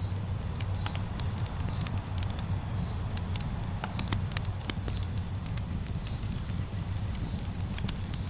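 Campfire burning with scattered sharp crackles and pops over a steady low rumble, and a short high chirp repeating about once a second.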